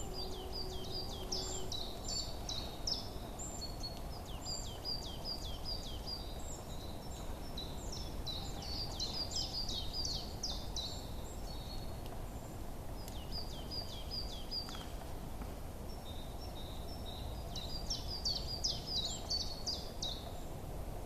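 Small songbirds chirping in bunches of quick, high, falling notes, in four or five spells with short pauses between them. Under them runs a steady low background hum of outdoor noise.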